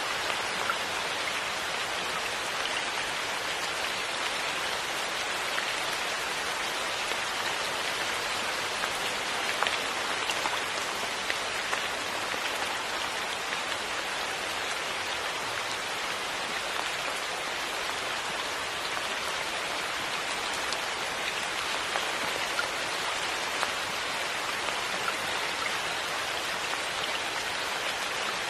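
Steady rain falling, an even hiss with scattered louder drops pattering through it.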